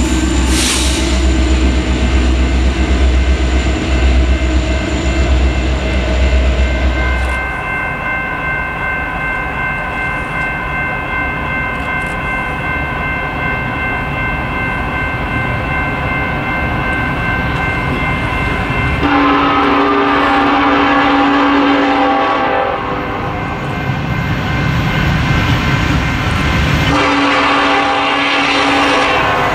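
Railroad train running by, with a heavy low rumble for the first several seconds and then a steady high tone for about ten seconds. A locomotive air horn then sounds two long blasts, one about two-thirds of the way through and one near the end.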